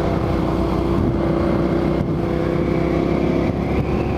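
Motorcycle engine running at a steady pitch while riding, with the pitch changing about three and a half seconds in.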